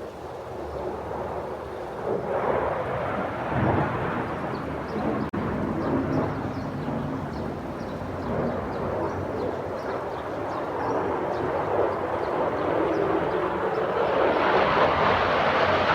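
Airplanes flying past overhead, a loud rushing noise that builds about two seconds in and swells again near the end.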